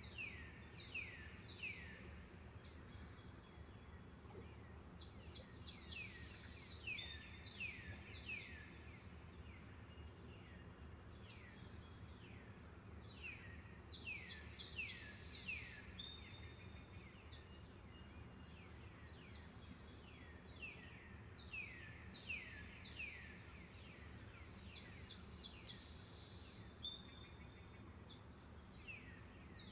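Forest birds singing in repeated phrases of quick falling notes, a new phrase every few seconds, over a steady high insect drone and a low, even rush of a flowing river.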